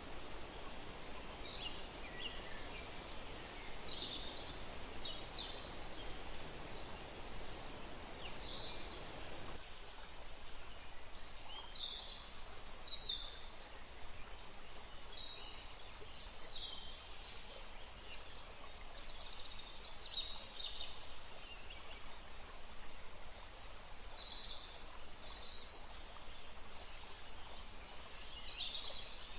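Birds chirping with many short, high calls scattered throughout, over a steady rushing noise from the outdoors. The lower part of the rushing noise drops away about ten seconds in.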